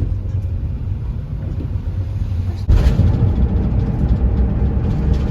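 Van engine and road rumble, a steady deep drone with hiss above it; about two and a half seconds in it cuts abruptly to a louder, brighter stretch of the same rumble.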